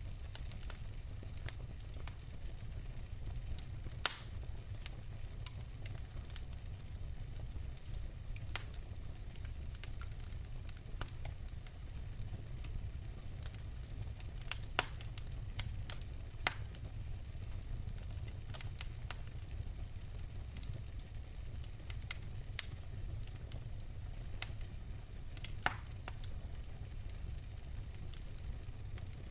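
Wood fire burning in a fireplace: logs crackling with scattered small ticks and a louder sharp pop every few seconds, over a steady low rumble of the flames.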